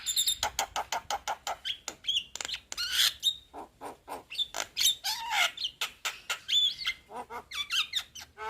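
Young Javan myna (jalak kebo) singing a rapid, varied chatter of short clicks, squeaky chirps and whistled notes with hardly a pause.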